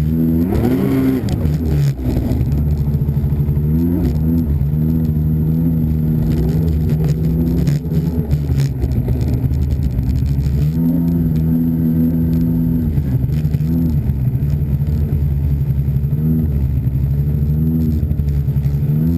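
Snowmobile engine running under changing throttle, its pitch rising and falling repeatedly as it revs up and eases off, with stretches held at a steady higher pitch.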